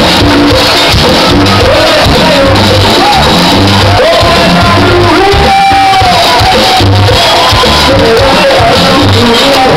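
A Latin dance band plays loudly, with a singer and shouted calls over a steady bass beat. A sung note is held for about half a second halfway through.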